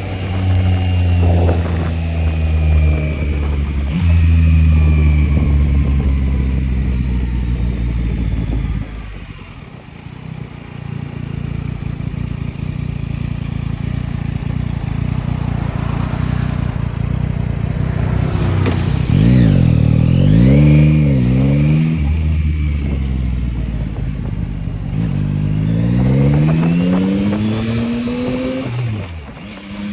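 Yamaha MT-09's three-cylinder engine under way, its pitch falling as the throttle is rolled off about nine seconds in. Revs rise and fall quickly several times around the middle, then climb steadily near the end with a brief break in pitch at a gear change.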